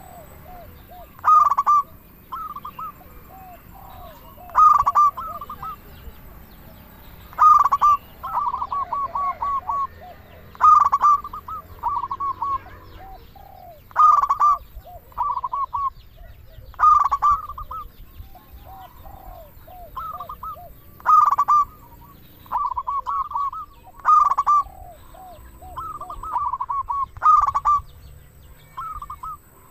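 Zebra dove (perkutut) cooing: a loud phrase about every three seconds, each a sharp opening note followed by a quick run of short coos, with softer, lower coos in between.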